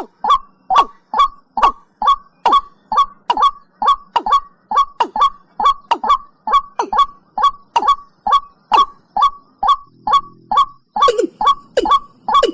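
Watercock (cúm núm) calling: a long, even series of short notes, each falling in pitch, repeated about two and a half times a second.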